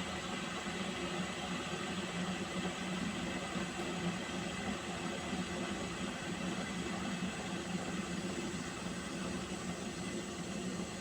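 Water heating in a pot toward the boil, a steady hiss over a low hum.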